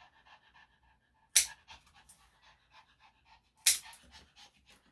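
Yorkshire Terrier panting rapidly, with two sharp clicks about two seconds apart, the snips of nail clippers cutting its nails.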